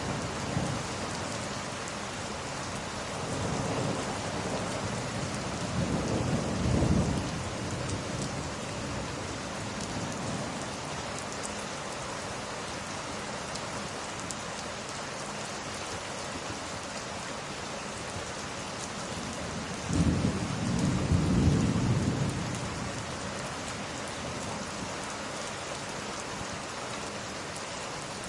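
Steady rain falling, with two low rumbles of thunder: one about a quarter of the way in, and a slightly louder one about two-thirds of the way through.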